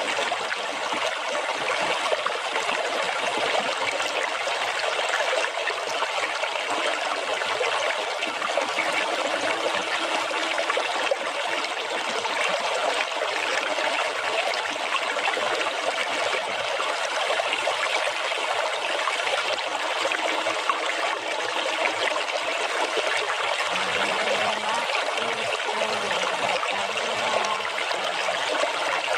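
Running water splashing and trickling steadily, without pause.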